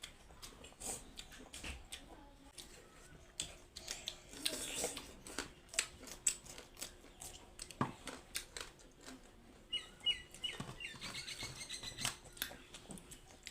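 Scattered small clicks and taps of eating and handling food. A bird chirps a quick run of short calls from about ten seconds in.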